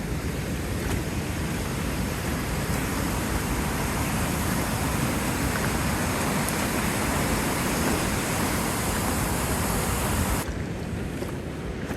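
Steady rushing of a waterfall, with wind buffeting the microphone as a low rumble. About ten and a half seconds in, the hiss drops away abruptly and the rumble carries on.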